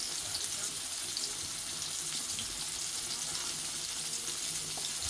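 Fish frying in hot oil in a pan: a steady sizzle with fine crackling spatters throughout.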